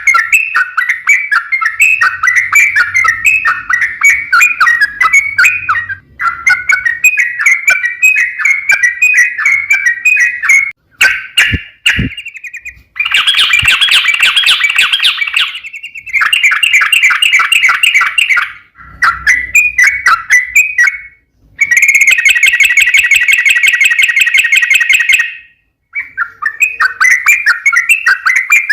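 Yellow-vented bulbul (trucuk) song: long, rapid runs of chattering notes in several loud stretches with short breaks between them, one stretch near the end of the middle turning into a fast, buzzy rattle. It is a lure recording meant to set other trucuk birds singing.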